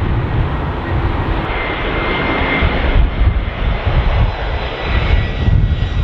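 Jet airliner engines running loud: a deep rumble with a thin, high whine over it.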